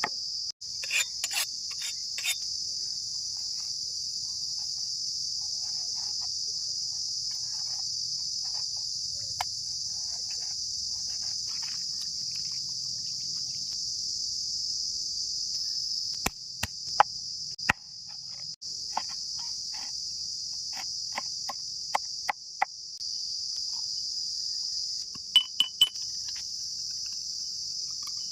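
A steady, high-pitched insect trill, crickets chirping without pause, with scattered sharp clicks and knocks over it.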